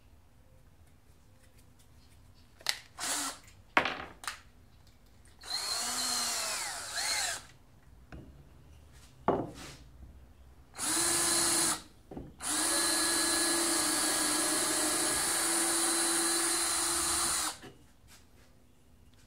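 Power drill running in short trigger pulls, its pitch rising and falling, then held for a steady run of about five seconds. A few sharp knocks come in between.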